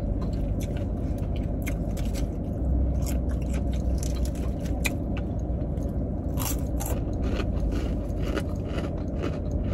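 Close-up chewing of crispy fried chicken, with scattered crunches and mouth smacks, over the steady low hum of the car's engine idling with the air conditioning on.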